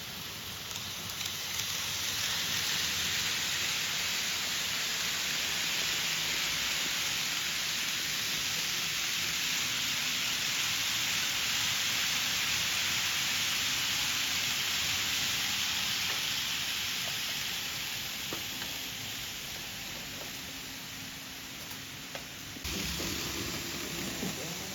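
N-gauge model train running along the layout track, its wheels and motor making a steady hiss. The hiss swells about two seconds in, holds, then fades away well before the end.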